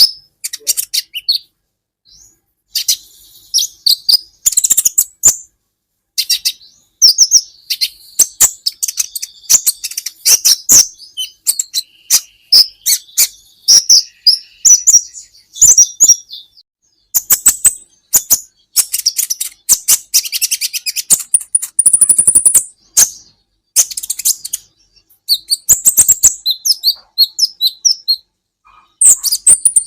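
Kolibri ninja sunbird singing: bursts of rapid, high chirping and trilling notes, each burst lasting a second or two, with short pauses between them.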